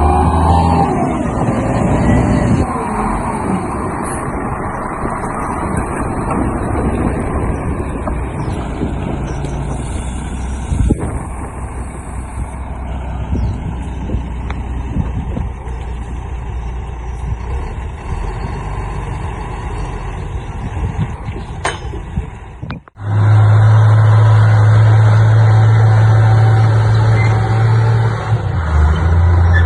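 Heavy diesel machinery running and working, dump truck and bulldozer engines with mechanical clatter. About three quarters of the way through, the sound cuts out for a moment and comes back louder, as a steady low engine drone.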